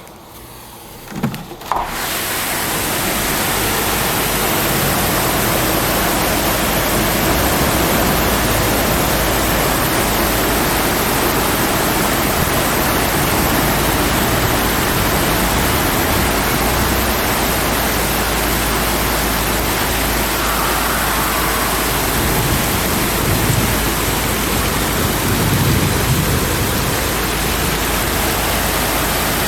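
Torrential thunderstorm downpour: heavy rain pouring down in a steady, loud hiss. It comes in after a couple of brief knocks about two seconds in, with a few low rumbles late on.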